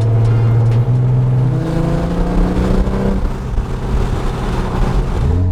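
Porsche 996 911 Turbo's twin-turbo flat-six accelerating through an aftermarket titanium X-pipe exhaust, very loud. The engine note holds steady, then rises in pitch about a second and a half in and swells into a full, rushing sound that cuts off abruptly near the end.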